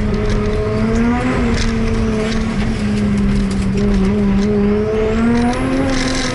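Car engine running hard at fairly steady high revs, its pitch wavering slightly up and down, with a high rising whine about five seconds in.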